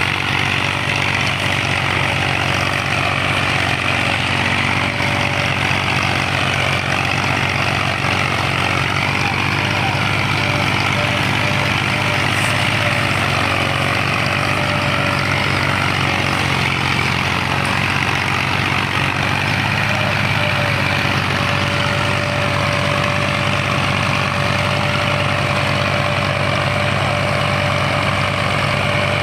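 Massey Ferguson 240 tractor's three-cylinder diesel engine running steadily, with a thin whine over the engine note.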